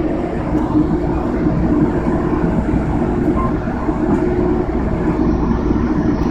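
Steady rumble of an Amtrak passenger train in motion, heard from inside the car.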